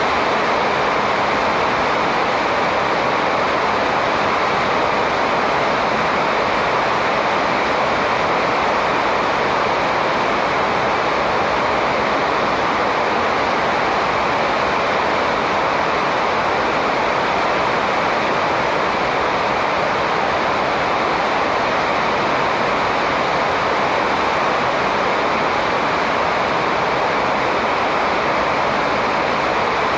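A steady, even rushing noise that does not change, with no bird calls standing out.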